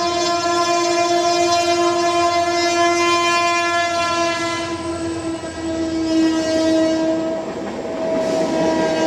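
Train horn sounding one long, steady blast.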